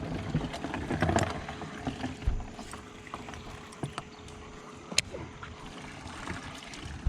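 Handling noises in a fishing boat: scattered light knocks and rustles, with one sharp click about five seconds in, over a faint steady hum.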